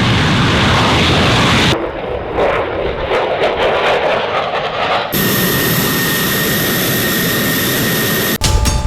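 F-16 fighter jet engine noise: a loud jet rush and rumble, cut abruptly twice, the last stretch carrying a steady high whine. Music with sharp beats comes in near the end.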